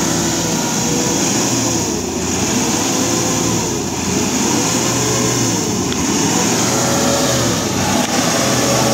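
Truck engine revving up and down in repeated swells, about one every second or two, over a steady high hiss.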